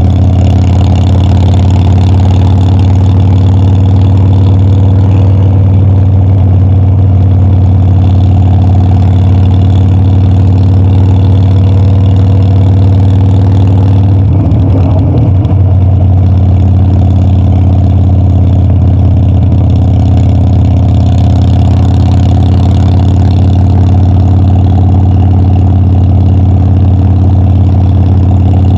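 Harley-Davidson Dyna's air-cooled V-twin engine running at a steady, even pitch, with a brief waver in the engine note about halfway through.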